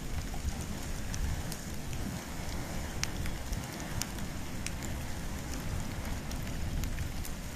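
Wood and bamboo fire burning: a steady low rush of flames with scattered sharp crackles and pops, one louder pop about three seconds in.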